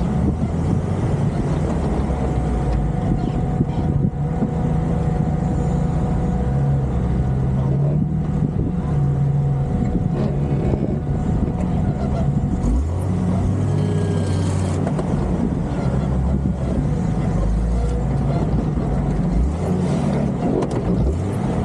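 Jeep Cherokee XJ engine running at low revs under load, its pitch rising and falling several times as the throttle is worked over off-road obstacles.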